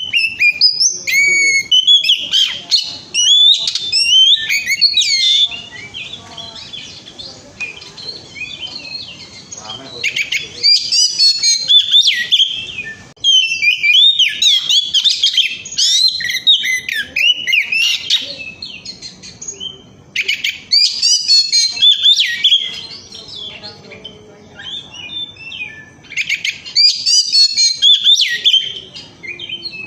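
Oriental magpie-robin (kacer) singing a loud, varied whistled song in phrases of a few seconds each, broken by short pauses. This is the full, strong song that keepers play as a lure to set other kacer singing.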